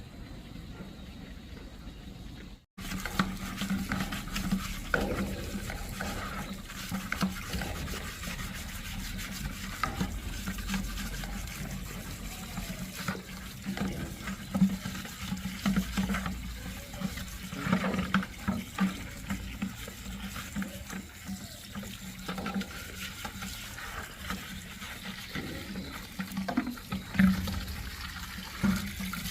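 Water running and splashing, with scattered small knocks and clatters through it, following a sudden cut about three seconds in.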